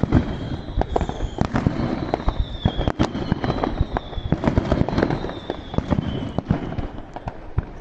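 Fireworks barrage: a rapid, dense run of pops and crackling bursts, with high whistles that slowly fall in pitch over the top.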